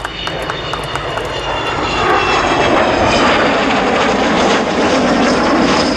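Avro Vulcan bomber's four Rolls-Royce Olympus jet engines passing in a display. The jet noise builds over the first two seconds to a loud, steady level, then eases off near the end.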